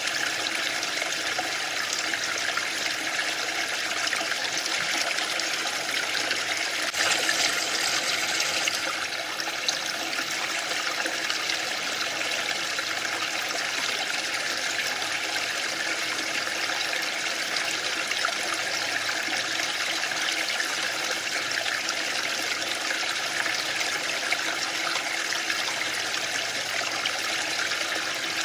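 Waterfall: a steady rush of falling, splashing water, a little louder for a couple of seconds about seven seconds in.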